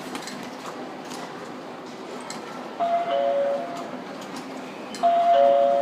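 Two-tone electronic station chime, a higher note joined just after by a lower one, sounding twice about two seconds apart over a busy station concourse's background noise with scattered faint clicks.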